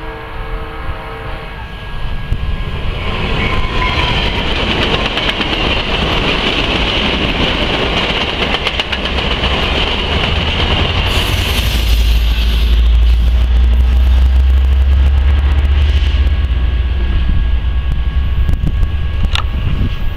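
A Talgo passenger train sounds its horn briefly, then passes close by at speed with a steady rush of wheels on rail and a hiss. A deep rumble grows in the second half, and the sound cuts off abruptly at the end.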